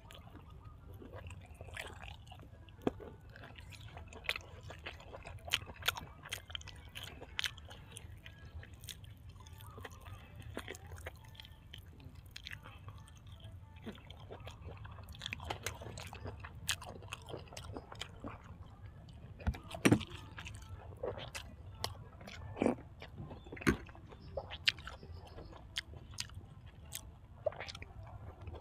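A person chewing and eating, mouth sounds of irregular sharp smacks and crunches while eating fermented beef with raw vegetables, over a steady low hum; the loudest smacks come about two-thirds of the way in.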